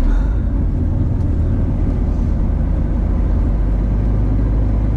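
Steady low drone of a Scania Next Gen truck's engine and road noise heard inside the cab while driving.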